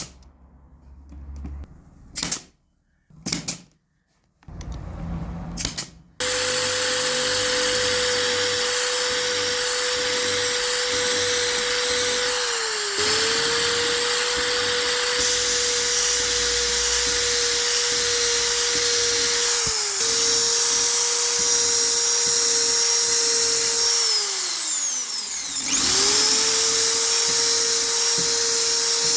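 A few short knocks, then a handheld electric power tool running in long steady stretches at a constant pitch. Its motor dips briefly twice, winds down about three-quarters of the way through, and spins straight back up.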